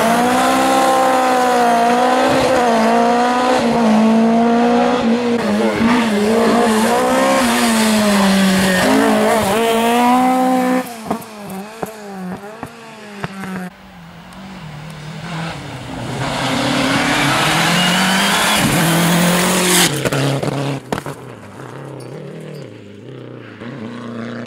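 Rally car engine revving hard, its pitch rising and falling through gear changes as the car drives past; the sound drops away about eleven seconds in, then another engine climbs in pitch and cuts off abruptly about twenty seconds in.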